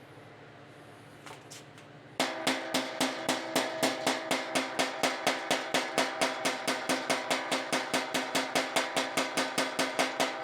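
Body hammer striking the steel fender over a dolly, a steady run of rapid blows at about five a second with a metallic ring, starting about two seconds in.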